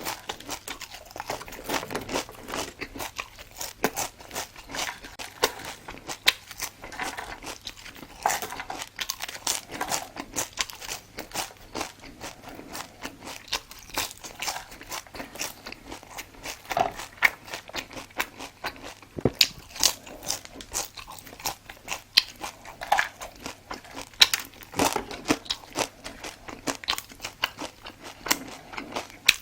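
Close-up chewing and biting of crunchy food: a steady run of irregular crisp crunches with wet chewing in between.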